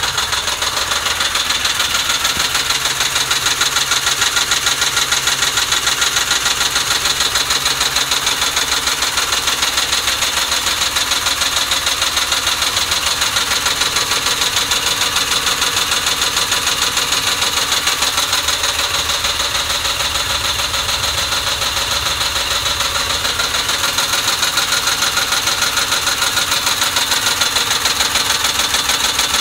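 2006 Ford Mustang GT's 4.6-litre V8 idling steadily after warm-up with a rough idle, the fault the owner is showing.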